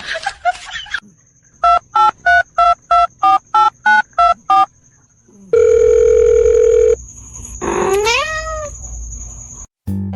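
Telephone keypad beeps, about ten short tones in a quick even row, then one long steady tone. After it a cat meows once, rising and then falling in pitch.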